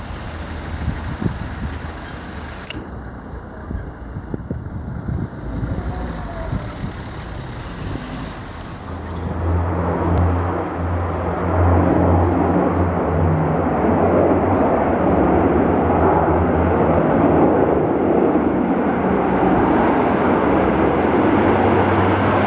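Canadair firefighting plane's propeller engines droning overhead, growing louder from about nine seconds in and holding a steady low hum as it passes close.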